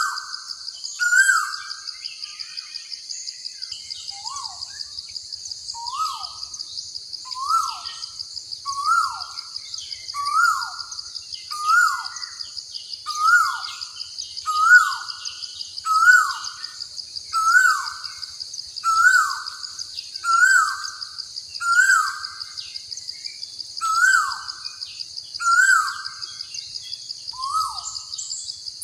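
A bird repeating one short, down-slurred call about every one and a half seconds, over a steady high-pitched insect buzz.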